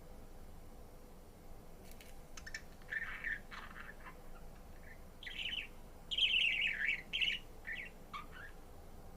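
Budgerigar chirping and warbling: after a quiet start, a quick string of short chirps and chattering notes begins about two seconds in and grows louder after the middle, then stops shortly before the end.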